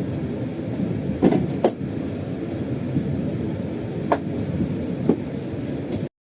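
Freight train running, heard from inside the locomotive cab: a steady rumble with four sharp clacks spread through it. It cuts off suddenly near the end.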